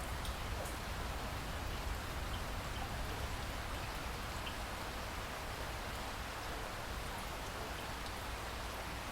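Steady rain falling: an even hiss with a few separate drips, over a steady low rumble.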